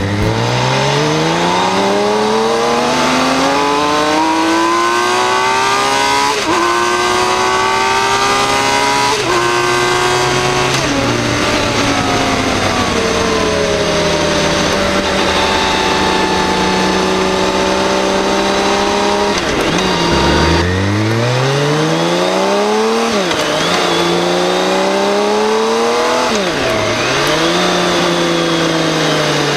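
BMW K1600GT's inline-six engine accelerating hard through the gears, its pitch climbing in each gear and dropping at each upshift. After a steady stretch and a fall in revs about twenty seconds in, a second pull through the gears begins, with quick upshifts.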